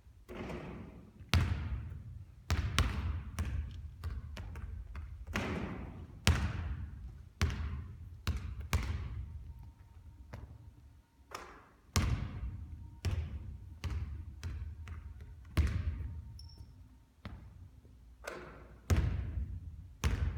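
Basketballs bouncing repeatedly on a hard court, each thud ringing and fading, with a loud bounce every few seconds.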